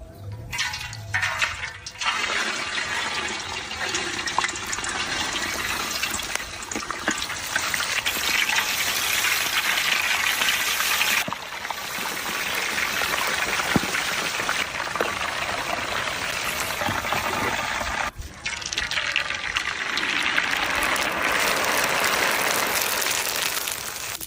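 Running water pouring steadily, with two short breaks about eleven and eighteen seconds in.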